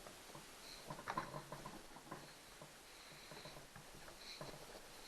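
Faint scattered clicks and light knocks of hands handling chainsaw parts, with a small run of ticks about a second in.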